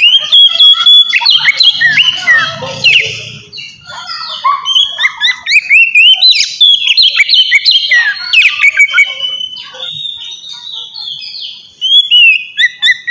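Oriental magpie-robin (kacer) singing a fast, varied song of whistled notes that glide up and down, with short lulls between phrases.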